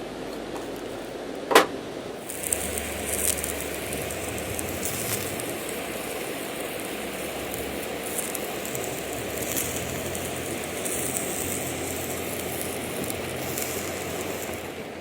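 Small campfire crackling irregularly over a steady rushing background, with one sharp click about a second and a half in.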